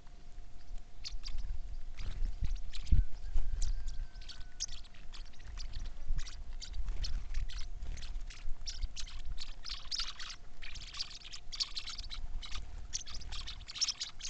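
Birds chirping in many short, quick calls, growing denser and louder for the last few seconds, over a low rumble.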